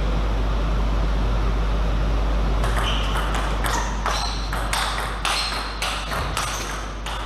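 Table tennis rally: the ball clicking off the bats and the table in quick succession, about two to three hits a second. It starts about a third of the way in, over a steady low hum.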